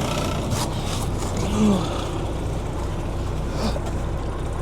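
Steady low rumble of an idling vehicle engine, with a short tone that bends down in pitch about a second and a half in.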